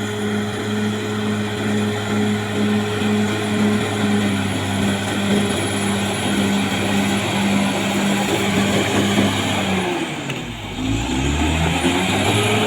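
Caterpillar D6R XL bulldozer's diesel engine running steadily, with a thin high whine above it. About ten seconds in the engine note dips in pitch and then climbs back up.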